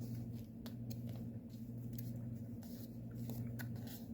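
Faint rustling and small clicks of cross-stitch kit materials (floss skeins and packaging) being handled, over a steady low hum.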